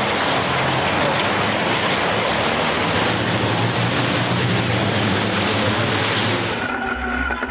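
Race trucks' turbodiesel engines running hard, a dense, loud wall of engine noise. Near the end it changes abruptly to a lower rumble with a steady whine on top.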